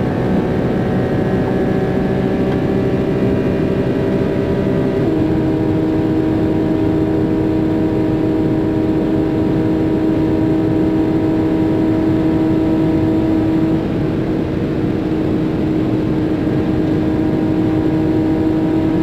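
Porsche Cayman GT4's flat-six engine heard from inside the cabin at full speed, near 250 km/h, with wind and tyre noise. About five seconds in the note drops with an upshift from fifth to sixth gear, then it holds a steady, slowly climbing pitch.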